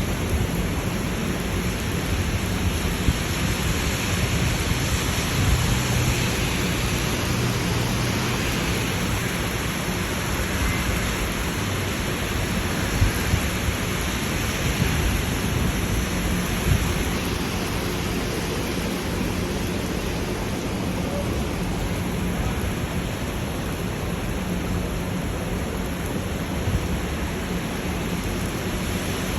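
Heavy rain pouring down in a steady hiss, with a few brief louder taps.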